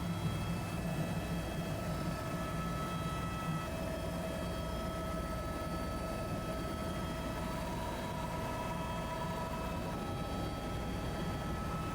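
Helicopter heard from inside the cabin: a steady drone of engine and rotor with several constant whining tones on top.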